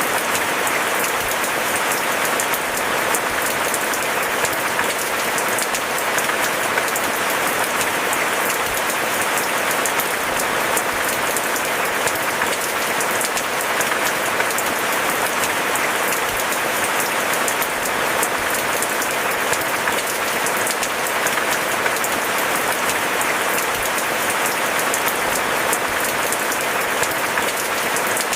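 Steady, heavy rain: a dense, even patter of drops hitting surfaces.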